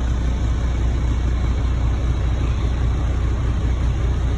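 Log truck's diesel engine idling: a steady, unchanging low hum.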